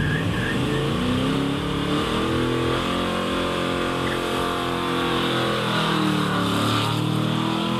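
A classic car's engine running as it drives past, its pitch rising at the start, holding steady, then dropping away near the end.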